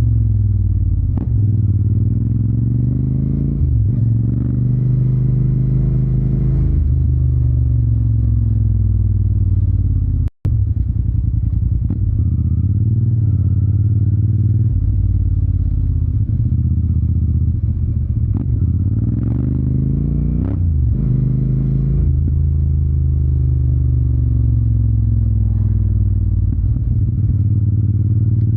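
Yamaha TDM 900 parallel-twin engine running through an Akrapovic exhaust under way, its note rising and falling again and again as the bike speeds up and slows. The sound cuts out for a split second about ten seconds in.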